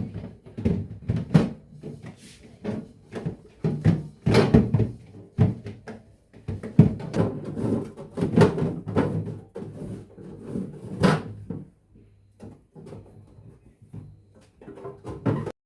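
Irregular knocks, clicks and clatter of household items being handled, like drawers, doors and containers being moved about. It cuts off abruptly near the end.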